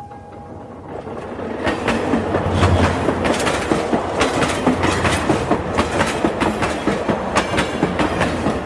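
Train clattering along its track: a fast, rhythmic clickety-clack of wheels over rail joints that builds up about a second in and then runs on steadily.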